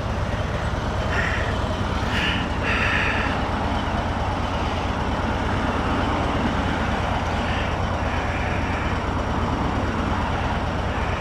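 Motorcycle being ridden on the road: steady engine and road noise.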